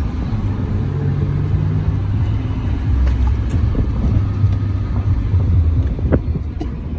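Steady, deep vehicle engine rumble.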